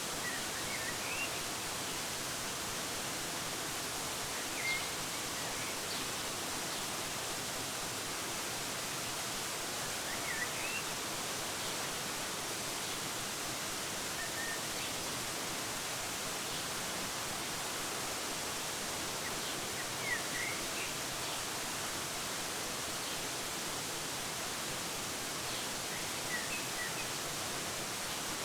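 Steady rushing of a waterfall, with short bird chirps breaking through every few seconds.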